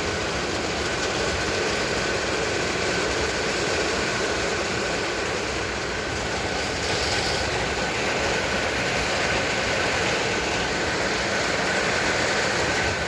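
Heavy thunderstorm rain falling, a steady, unbroken rushing noise with no thunderclaps, and a faint steady high whine underneath.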